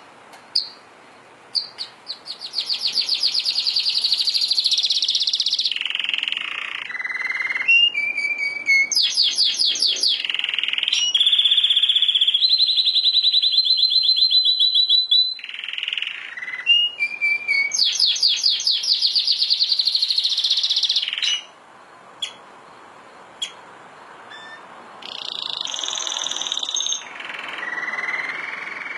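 Domestic canary singing long phrases of rapid trills and rolls, interrupted by a short lull of scattered chirps about two-thirds of the way through.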